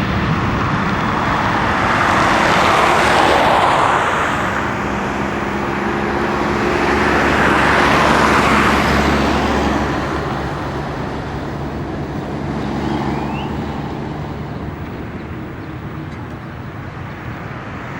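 Boeing 747 jet engines rumbling as the airliner climbs away after takeoff, the roar slowly fading, with road traffic swelling past twice.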